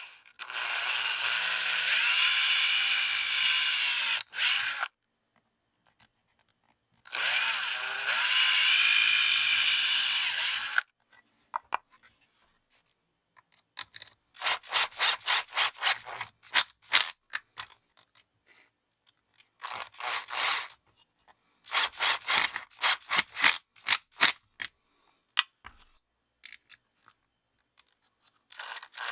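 A small handheld power tool runs in two bursts of about four seconds each, its pitch shifting slightly as it works. It is followed by a long series of quick rubbing or scraping strokes, several a second, in uneven groups.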